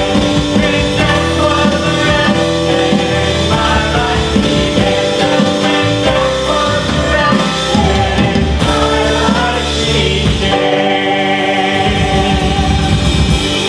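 Live worship band playing a rock-style worship song, with drums, bass and singing.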